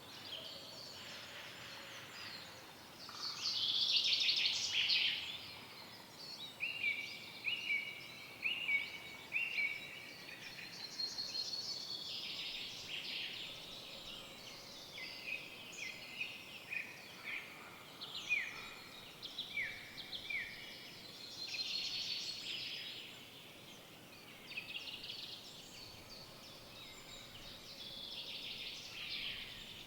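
Several songbirds singing over one another in a forest, with busy chirps and trills throughout. About a third of the way in, and again past the middle, one bird repeats a run of short down-slurred notes.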